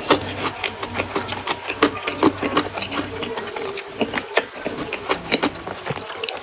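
Close-up chewing and crunching of raw vegetables with rice and sambal: quick, irregular crisp crunches, several a second.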